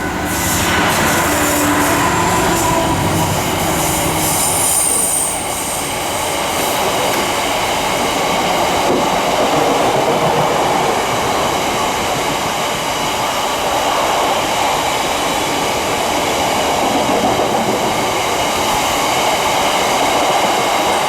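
Class 59 diesel locomotive passing at the head of a heavy freight train, its two-stroke EMD engine heard for the first few seconds. After it the wagons roll by in a long steady rumble and clatter, with a brief wheel squeal about four seconds in.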